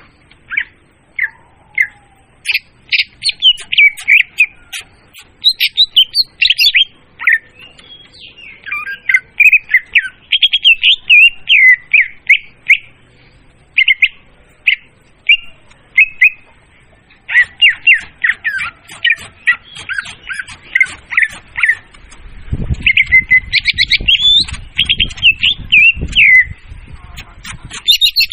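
Lure recording of a murai daun singing: loud, rapid runs of short chattering and whistled notes with brief pauses between phrases. A low rumble sits under the song for a few seconds near the end.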